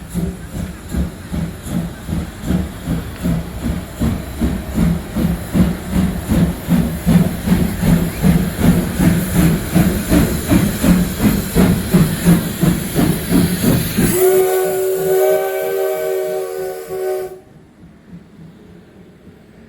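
CT270-class 4-6-2 steam locomotive CT273 working with a steady chuff, about two exhaust beats a second, then sounding its steam whistle, a chord of several tones held for about three seconds that cuts off sharply.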